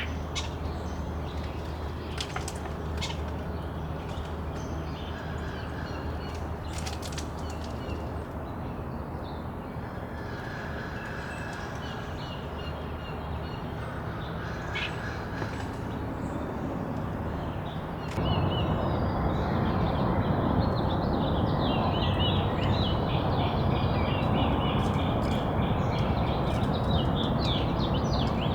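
Backyard ambience with songbirds calling and chirping in short scattered notes. About eighteen seconds in the background abruptly gets louder and a dense, continuous chatter of bird calls begins.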